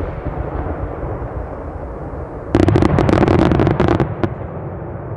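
Large aerial firework shells (10-gō shakudama) bursting: a low rolling rumble fades, then about two and a half seconds in comes a rapid run of sharp cracks for about a second and a half, with one last crack just after, and the rumble rolls on.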